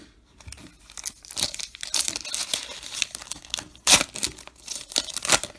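Trading card pack wrapper being crinkled and torn open: a run of crackling and rustling with a sharp tear about four seconds in.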